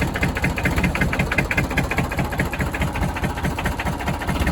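1997 Massey Ferguson three-cylinder diesel running roughly on about one cylinder just after a cold start, a fast, regular beat of about six or seven pulses a second: the other cylinders are not yet firing.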